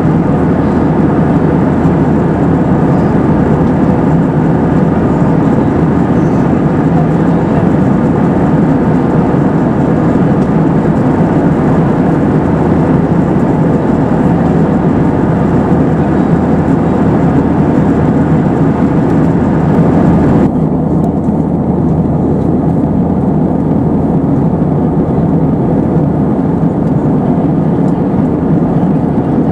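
Steady cabin noise of a British Airways Airbus A320-232 in flight: its IAE V2500 turbofans and the airflow make a continuous low rush. About two-thirds of the way through, the higher hiss drops away abruptly.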